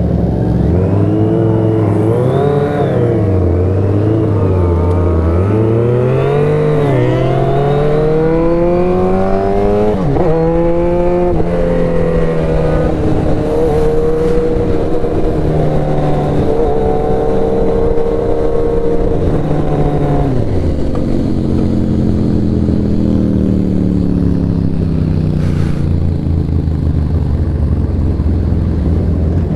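Motorcycle engine under way, its pitch rising and falling as the rider speeds up and eases off through curves, with a sharp rev and drop about ten seconds in and a long slowing fall from about twenty seconds in before it settles to a steady low run.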